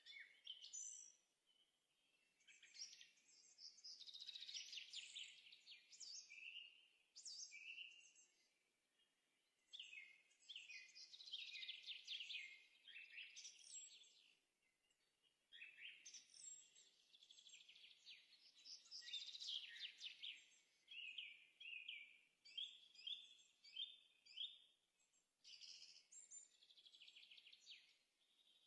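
Faint birdsong: a small bird singing phrases of rapid, high chirps and trills, several seconds each, with short pauses between them.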